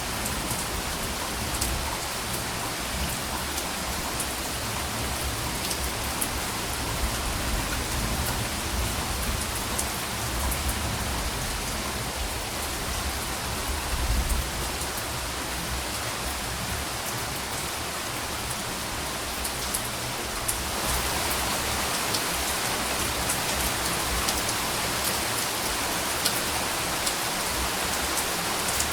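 Steady rain falling, with scattered drop ticks and a brief low rumble about halfway through; the rain grows a little louder about two-thirds of the way in.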